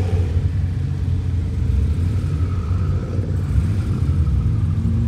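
Several sports-car engines idling and moving off at low revs, a deep, steady rumble.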